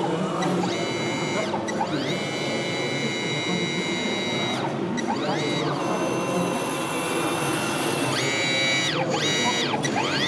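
Whine of a radio-controlled model vehicle's electric motor, speeding up, holding a steady pitch for a second or two, then winding down, about six times over. Behind it runs steady crowd babble.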